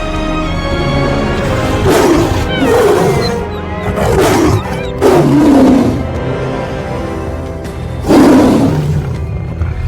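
Lion roaring several times, deep growling roars about two, four, five and eight seconds in, over orchestral film music.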